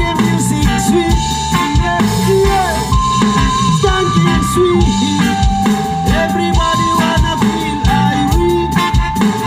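Reggae band music in an instrumental break: drum kit and bass on a steady beat under a lead melody of held, stepping notes.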